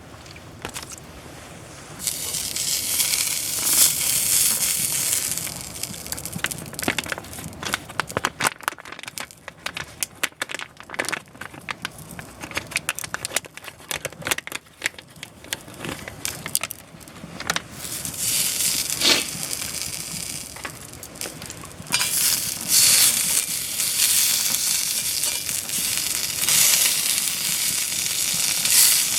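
Food sizzling in a small cast-iron skillet over a wood fire: stretches of steady hiss, with a long run of crackling and popping in the middle.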